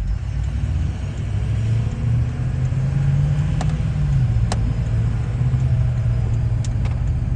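Car engine and road noise heard from inside the moving car. The engine note rises, then drops about four seconds in, as when accelerating and shifting up, with a few faint clicks.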